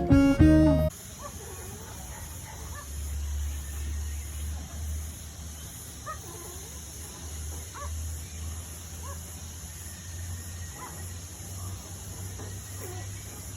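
Acoustic guitar music cuts off about a second in. Then aviary ambience: scattered faint bird calls over a steady high hiss and a low hum.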